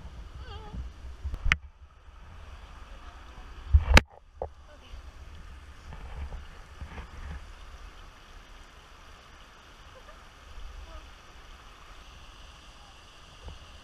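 A canoe being paddled, with water sounds over a low rumble. There is a sharp knock about four seconds in and a smaller click a little earlier.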